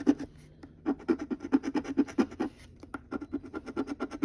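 Scratch-off lottery ticket being scratched: quick rubbing strokes, several a second, that pause briefly near the start and then run on.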